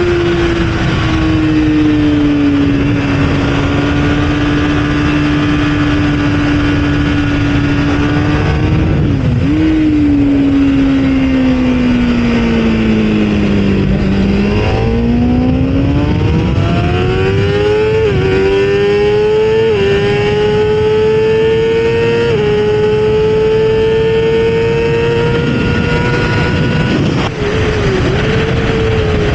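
Kawasaki ZX-6R inline-four sport bike engine running hard on track, with wind rush. The engine note holds, then falls steadily to a low point about halfway through. It climbs again through several gear changes and settles high, with another quick shift near the end.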